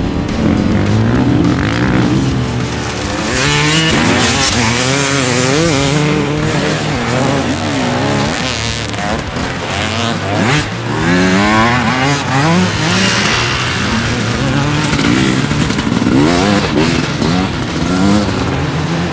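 Motorcycle engines revving, their pitch rising and falling again and again, with several bikes overlapping.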